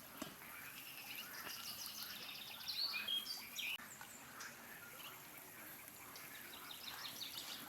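Small birds chirping and singing, a cluster of quick high notes and sweeps loudest about three seconds in, over a faint steady outdoor hiss.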